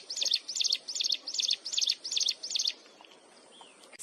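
A fantail singing a quick, even series of high arched whistled notes, about four a second, which stops about three-quarters of the way through.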